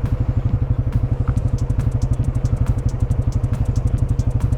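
Motorcycle engine idling with a steady, even low pulse and a light regular ticking.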